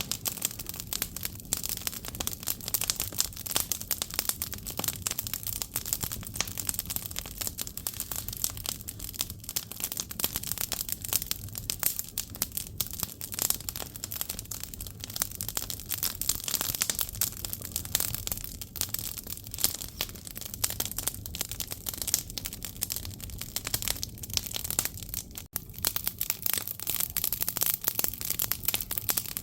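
Firewood burning in a Korean agungi firebox, crackling and popping continuously with quick irregular snaps over a steady low rumble of the fire.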